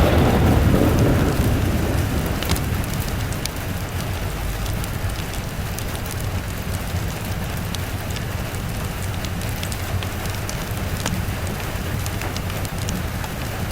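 Steady rain with a roll of thunder at the start that rumbles away over the first couple of seconds, and scattered sharp crackles over the rain.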